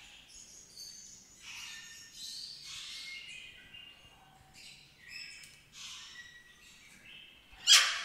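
Small songbirds chirping and singing in short, repeated phrases, with one sharp, much louder burst near the end.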